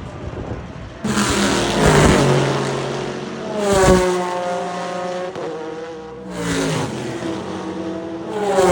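Historic race cars passing at speed, their engines' pitch falling as each goes by, in several short clips cut one after another.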